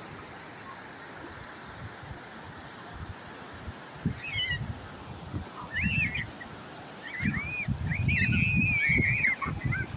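Surf washing up a beach under a steady hiss, with gusts of wind on the microphone. From about four seconds in, a bird calls in short, high, rising-and-falling chirps that come thickest near the end.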